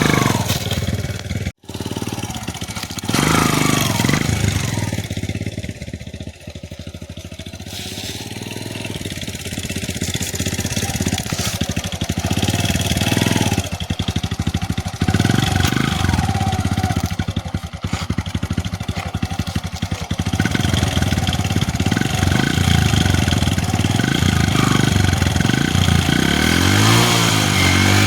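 Motorcycle engine running, with a brief cut-out about a second and a half in and the revs rising near the end.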